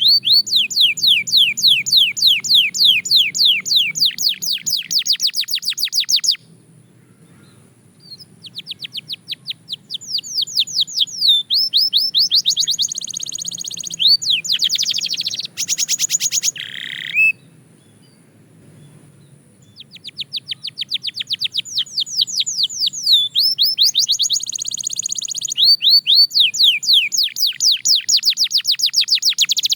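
Belgian canary singing long, fast trills of rapidly repeated chirps, broken by two short pauses.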